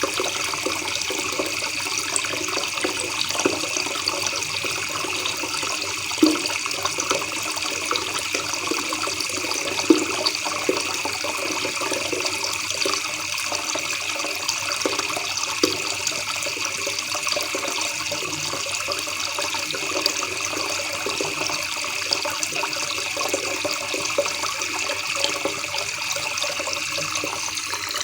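River water babbling and splashing in a steady continuous rush, with a few brief louder splashes.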